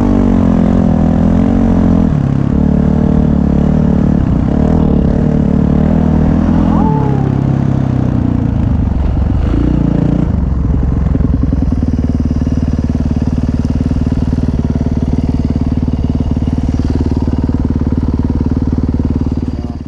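Dirt bike engine running loud, its pitch rising and falling for the first half, then holding steady, and cutting off abruptly at the very end.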